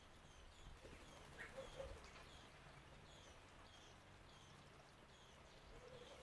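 Faint steady hiss of a bird-bath fountain's flowing water, with small garden birds chirping softly over it about once or twice a second.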